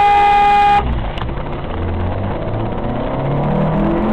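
A car horn held on one steady note, cutting off under a second in, followed by a car engine accelerating, its pitch rising steadily.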